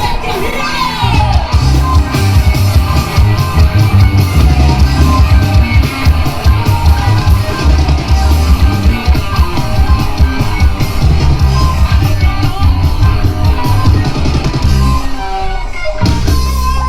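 Live rock band with electric guitars, bass and drum kit playing loudly, with a vocalist singing over it. The band briefly thins out near the end before playing on.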